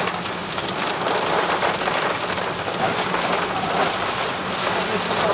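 Heavy rain beating on a car's windshield and roof, heard from inside the cabin: a steady, dense patter.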